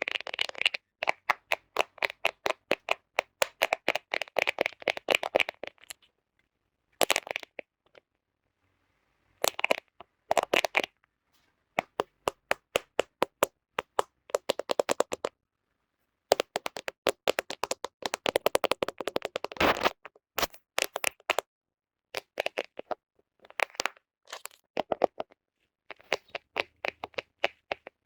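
Fingernails tapping and scratching on a smartphone camera: rapid trains of sharp, close-miked clicks in bursts, broken by short pauses.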